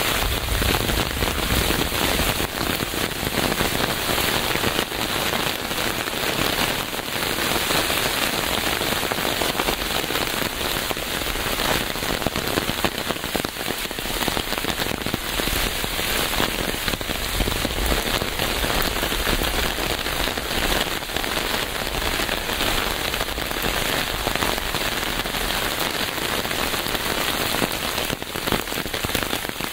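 Steady rain falling on a surface: a dense, even hiss dotted with many small drop ticks.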